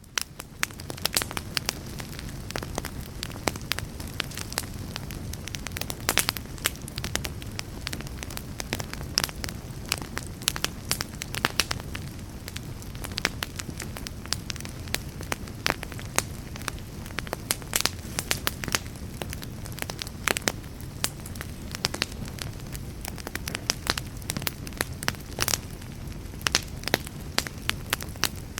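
Fireplace fire crackling: a steady low rush of flames with frequent sharp snaps and pops throughout.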